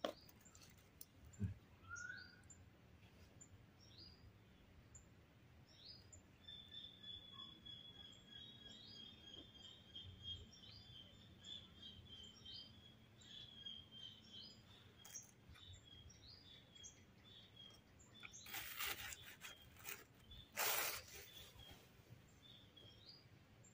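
Faint small birds chirping in the background, with a run of quick high chirps lasting about ten seconds. Two brief noises, about two seconds apart, near the end.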